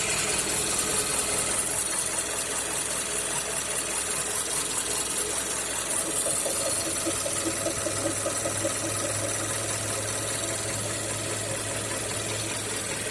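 Mazda CX-5's 2.5-litre Skyactiv-G (PY) petrol engine idling fully warm, with a rhythmic knocking tap over the steady running; a low hum joins about halfway. The owner suspects the swirl flaps on the intake manifold are the source of the knock.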